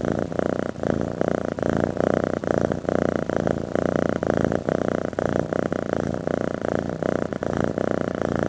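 An animal making a steady, rapid purring rattle.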